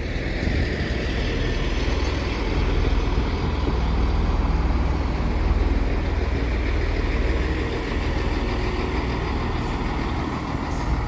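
Class 158 diesel multiple unit running slowly into the station: a steady low diesel rumble that swells a little midway and then eases.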